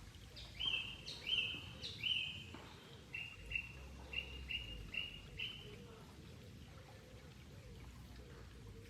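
A bird calling: a series of clear notes, three longer ones followed by five shorter, quicker ones, then it stops, over a faint background.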